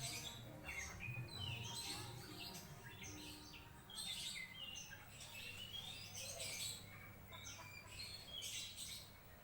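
Greater green leafbird (cucak ijo) singing faintly: a run of quick, varied chirps and short twittering phrases, some sweeping down in pitch.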